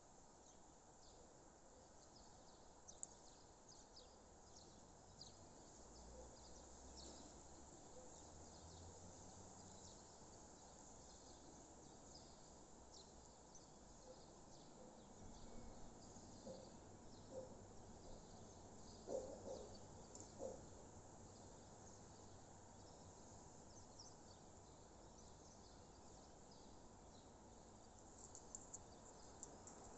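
Faint outdoor dawn ambience with small birds chirping in the distance: many short, high chirps keep coming throughout. A few louder, lower short calls come about two-thirds of the way through.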